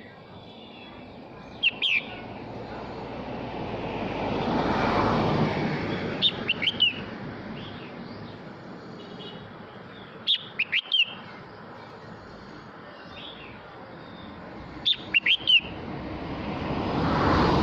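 Male red-whiskered bulbul singing short, quick phrases of a few high notes, four times about every four seconds. A broad rushing noise swells and fades twice behind the song.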